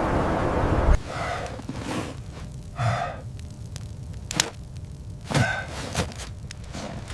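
Steady wind noise that cuts off suddenly about a second in, followed by a person's heavy breaths and a few short light knocks.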